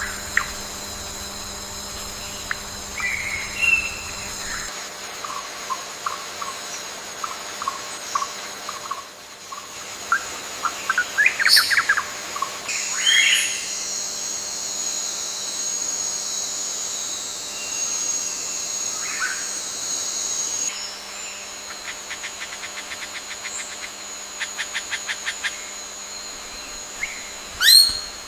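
Assorted wild birds chirping and calling in short notes over a steady high-pitched insect drone, which drops out and returns. Near the end a fast, even trill of notes is heard, then a louder call.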